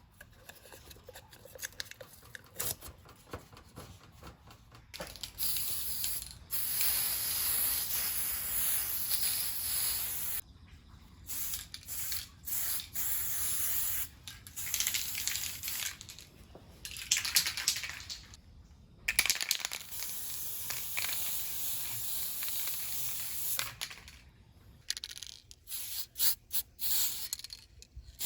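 Hissing spray in bursts of a few seconds each, stopping and starting, with a run of short spurts near the end.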